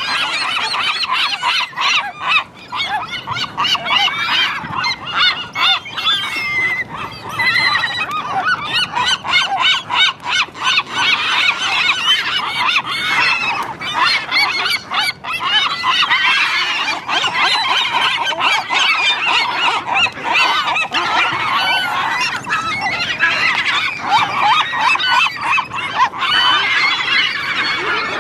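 A crowd of seagulls calling over one another in a dense, continuous chorus of squawks and cries, with many short sharp clicks among them.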